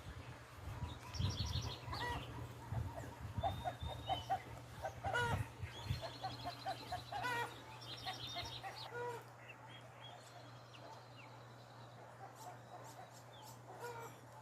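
Several birds chirping and trilling in quick calls, busiest through the first nine seconds and sparser after, over a steady low hum.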